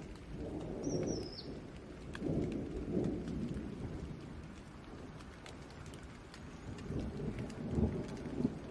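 Steady rain falling, with thunder rumbling in low swells: about a second in, again around two to three seconds in, and a stronger roll near the end.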